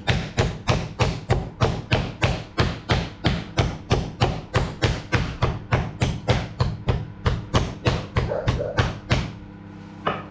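Meat mallet pounding a chicken breast flat through plastic cling film on a board: a steady run of thuds, about three a second, that stops about a second before the end.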